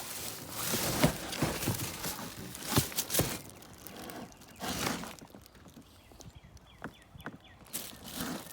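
Handling noise: irregular knocks, clicks and short rustles as parts and their packaging are moved about, with footsteps.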